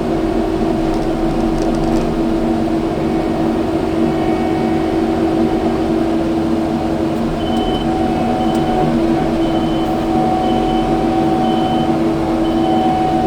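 Kubota skid steer's diesel engine running steadily. About halfway through, a short high beep starts repeating about once a second.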